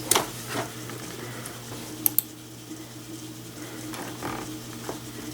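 Computer mouse clicking, with a quick double click about two seconds in, over a steady low hum.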